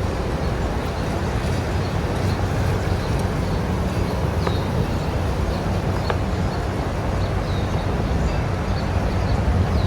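Steady rushing outdoor background noise, with a few faint, short, high bird chirps scattered through it.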